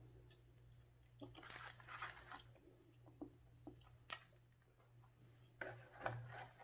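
Faint close-up chewing and crunching of food in short bursts, about a second in and again near the end, with one sharp click in the middle. A steady low electrical hum runs underneath.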